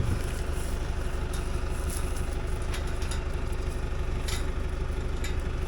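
AgKing tractor's engine idling steadily, with a few faint clicks over it.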